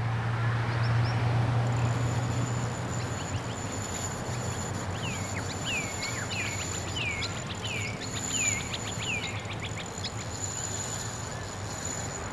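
A bird calling a run of about six short notes that each fall in pitch, somewhat more than one a second, starting about five seconds in, over steady waterside ambience. A faint high steady whine and a low hum sit underneath.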